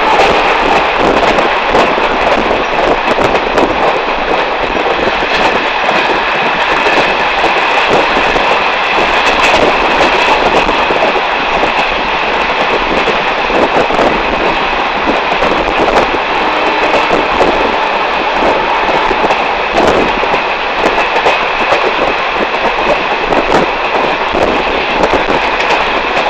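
Train running along the track, heard from on board: a loud, steady rumble and rattle of the wheels and carriage, dotted with frequent clicks.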